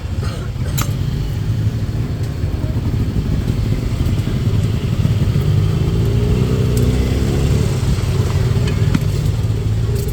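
Road traffic of cars and motorbikes, engines running steadily, with one vehicle passing louder about halfway through.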